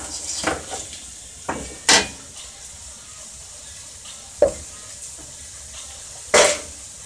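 Diced onions sizzling in butter in a pot on a gas stove, with several sharp clinks and knocks of a knife and utensils against the pot and counter. The loudest come about two, four and a half, and six and a half seconds in.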